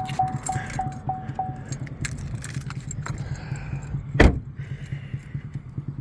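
A 2024 Chevrolet Trax's warning chime beeping evenly about three times a second, stopping a little under two seconds in. There is one sharp, loud knock about four seconds in, over a steady low hum.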